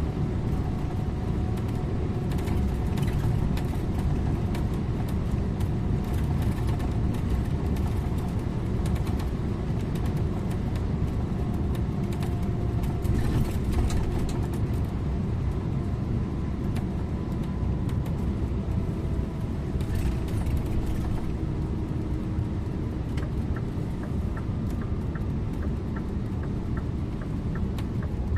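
Scania InterLink bus driving on the road, heard from the driver's seat: a steady low rumble of engine and tyre noise with a faint drifting whine. Near the end, a faint regular ticking.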